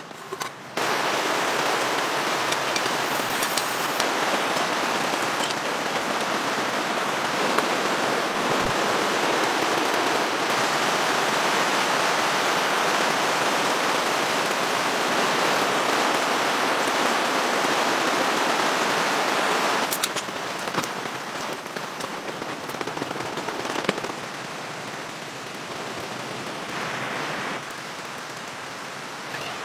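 Heavy rain pouring steadily, with scattered sharper drop impacts. It starts abruptly just under a second in and about two-thirds of the way through eases to a quieter, lighter rain.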